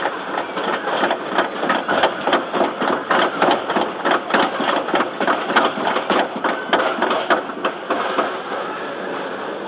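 Iron Dragon suspended roller coaster clacking rapidly and regularly, about three sharp clacks a second over a steady rush of noise. The clacking thins out and stops about eight seconds in.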